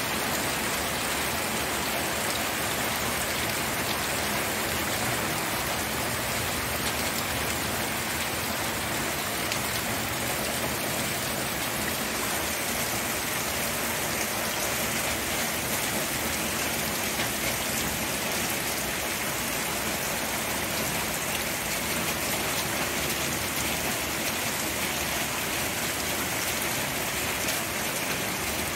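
Steady rainfall, an even hiss of rain pattering on surfaces, with no change in strength.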